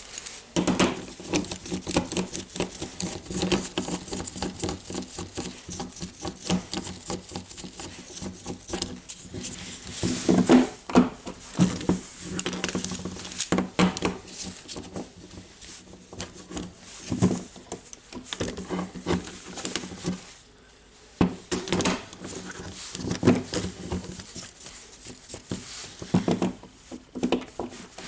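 Small steel parts and hand tools clicking, clinking and scraping in irregular bursts as a spring ring is worked into its groove on a rotary hammer's clutch assembly, with a short lull about two-thirds of the way through.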